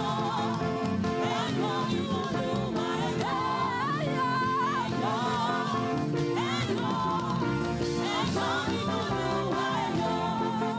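Live Yoruba gospel praise music: a band plays on steadily while voices sing a melodic line between repeats of the chorus.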